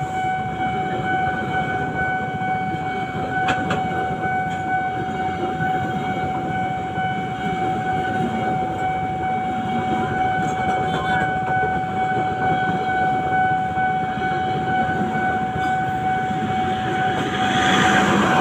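A train running through a railway level crossing: a steady noisy rumble under a continuous high-pitched warning tone from the crossing signal. Near the end the rumble grows louder and a few short squeals come in.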